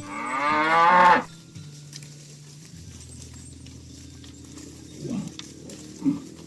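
Cattle mooing: one loud moo about a second long that rises in pitch, then a few short, fainter calls near the end.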